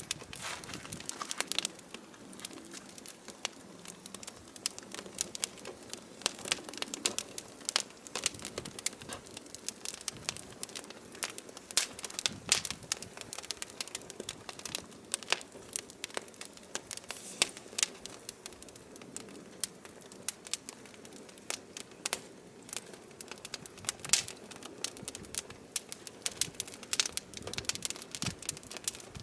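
Burning firewood crackling: a dense, irregular run of sharp pops and snaps over a faint low rush of the fire.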